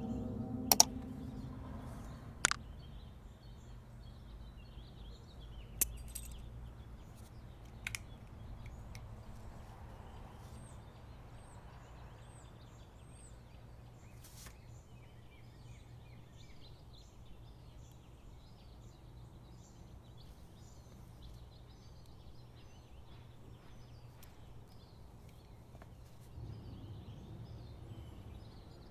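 Quiet outdoor background noise with faint high bird chirps and a steady low hum, broken by a few sharp clicks in the first eight seconds.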